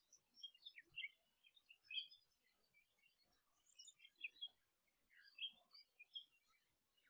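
Faint twittering of small birds: rapid, short high chirps coming in spells of a second or so, with brief lulls between.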